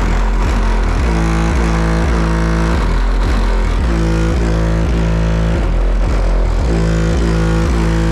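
Music with heavy, steady sub-bass playing loud through an upgraded car audio system: a Skar amplifier driving the speakers and subwoofers, fed from the factory radio through an AudioControl LC7i line output converter with bass restoration. A melodic loop repeats over the constant deep bass.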